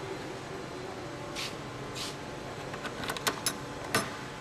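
Steady low machine hum of a workshop, with two short hisses and a scatter of light clicks and knocks, bunched about three to four seconds in.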